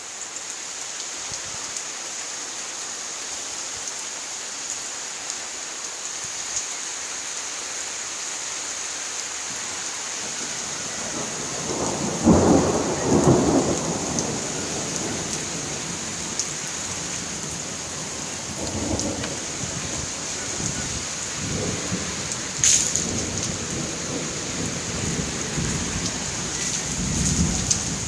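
Heavy rain pouring down in a steady hiss, with thunder rumbling about twelve seconds in, the loudest moment, and further lower rumbles and a sharp crack later on.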